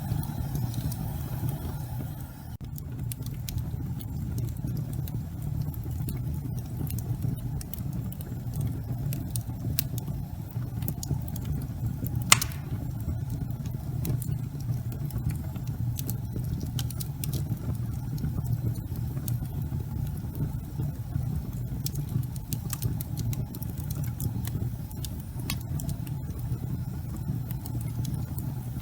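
Wood fire burning in a fireplace: a steady low rumble of flame with scattered crackles and one sharp, loud pop about twelve seconds in.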